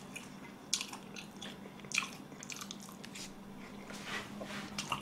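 Close-miked chewing of a piece of sweet-glazed fried chicken, with several crisp crunches spaced about a second apart.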